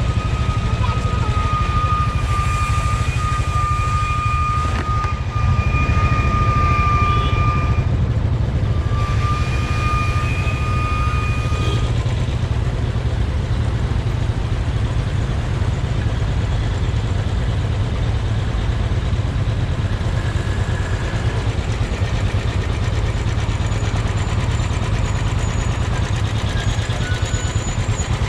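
Motorcycle running on the move, with a heavy, steady low rumble of wind on the microphone. A steady high whine sounds for the first twelve seconds or so, with a short break near the eighth second.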